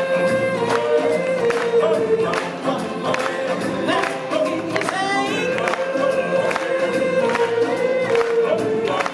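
Live show music: a chorus singing long held notes over a band with a steady beat, as the audience is led in a sing-along.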